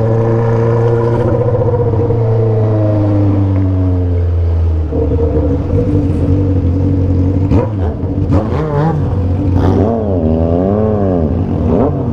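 Motorcycle engines with 3-inch aftermarket exhausts and remapped tuning running. A steady engine note slowly drops in pitch, then about halfway through the revs rise and fall several times.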